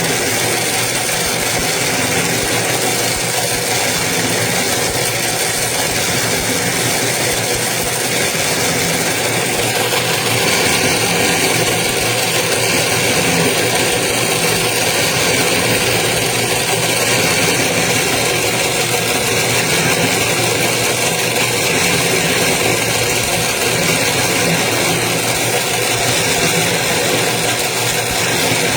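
Toroidal transformer winding machine running steadily, a continuous mechanical motor hum with a slight change in tone about ten seconds in.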